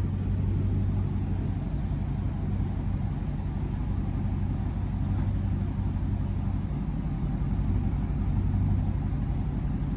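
Straight-piped Dodge Charger Scat Pack's 392 HEMI V8 running at low speed, a steady deep exhaust rumble, swelling slightly near the end as the car is eased forward.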